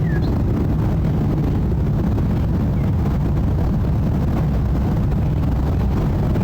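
Steady low rumble of a jet airliner flying overhead on its climb out after departure.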